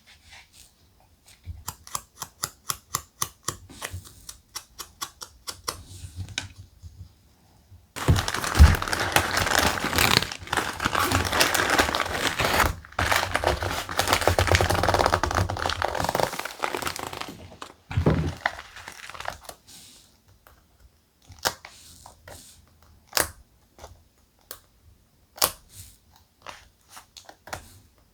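Thick paper being handled for scrapbook journaling: a quick run of clicks, about five a second, for several seconds, then about nine seconds of dense rustling and crinkling paper. Scattered single taps and clicks follow near the end.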